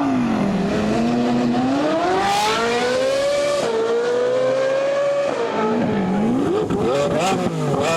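Supercar engine accelerating hard, its pitch rising, dropping suddenly at a gear change about three and a half seconds in, and rising again; after another drop near five seconds it is blipped up and down in short revs.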